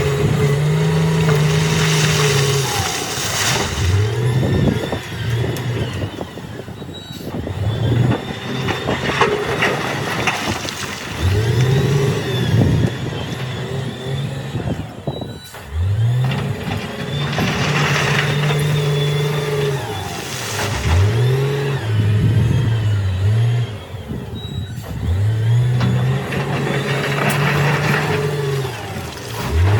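Diesel engine of heavy earthmoving machinery revving up under load and dropping back, over and over in cycles of a few seconds. Bursts of rushing, crashing noise come several times along with the revs.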